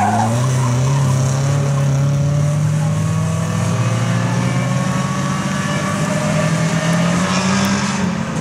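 BMW E30 rally car's engine accelerating hard in one long pull, its pitch rising slowly and steadily without a gear change.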